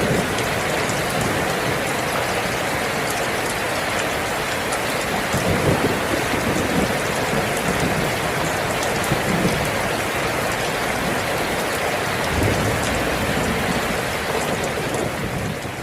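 Steady rain falling, with low rumbles swelling now and then, beginning to fade out near the end.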